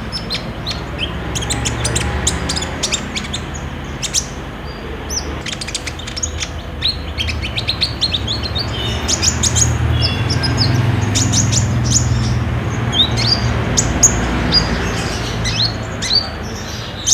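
Kolibri ninja (Van Hasselt's sunbird) singing a rapid, busy string of sharp high chirps and quick falling notes, over a low steady hum. This is the kind of lively song used as a lure to set a caged sunbird singing.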